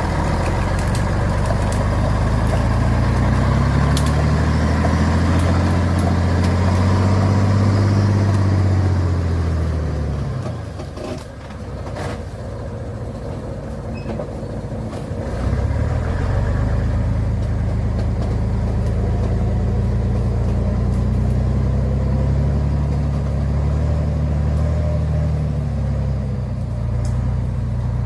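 Truck engine revving hard under load, its pitch climbing and then sinking before it drops away about ten seconds in. It runs quieter for a few seconds, then revs up and holds again: a loaded truck straining to pull through mud.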